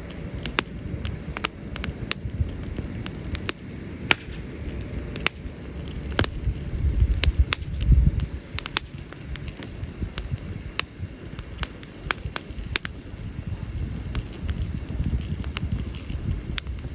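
Wood campfire crackling, with irregular sharp pops and snaps over a low rumble that swells about seven to eight seconds in.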